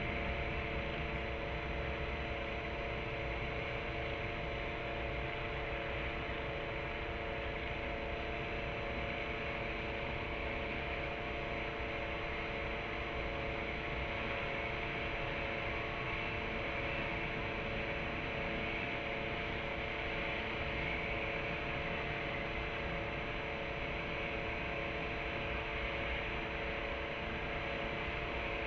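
Steady background hum and hiss with several constant tones, unchanging throughout, like a ventilation unit or distant city noise picked up by a fixed outdoor microphone; no separate events.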